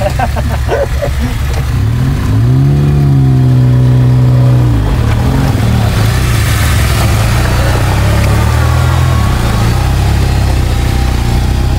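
An off-road vehicle's engine running close by; about two seconds in it revs up, holds high for a couple of seconds, then drops back and keeps running steadily.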